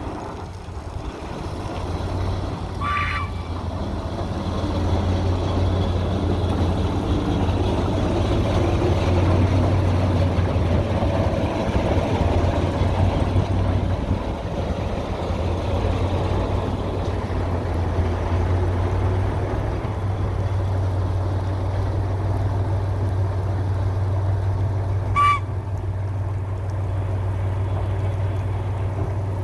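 YaMZ-236 V6 diesel of a TU6A narrow-gauge locomotive running steadily under way. Two short high-pitched toots, likely from the locomotive's horn, sound about three seconds in and again near the end, the second one briefer.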